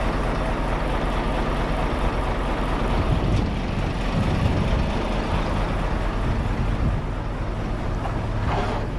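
Scania lorry's diesel engine running steadily, its low note shifting about three seconds in.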